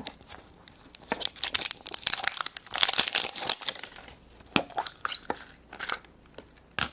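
Wrapper of a surprise egg crinkling and tearing as it is unwrapped, followed by scattered sharp clicks.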